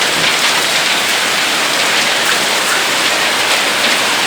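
Heavy downpour of rain mixed with small hailstones, a dense, steady hiss of water striking the ground with scattered faint ticks.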